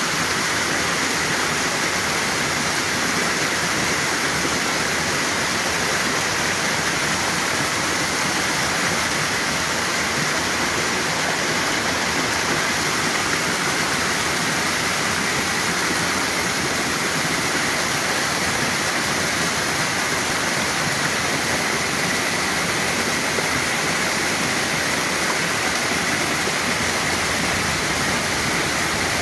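Steady loud rush of floodwater pouring down a swollen creek in a flash flood.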